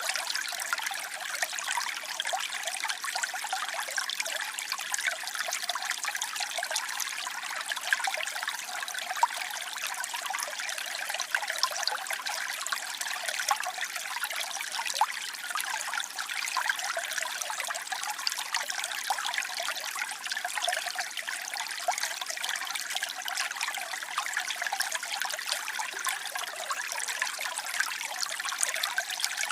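Waterfall: a steady rush of falling and splashing water, with its sound weighted to the high end and no deep rumble.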